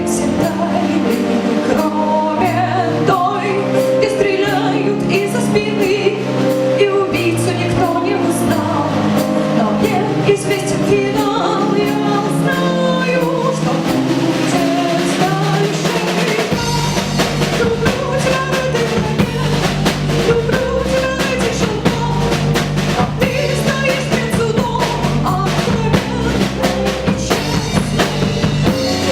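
Live rock band with violin playing an instrumental passage: a wavering melodic lead line over drum kit and bass. About halfway through the bass and drums come in heavier and fuller.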